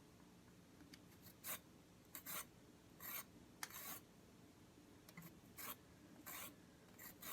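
A carrot being peeled: a series of short, faint scraping strokes at an irregular pace, roughly one or two a second.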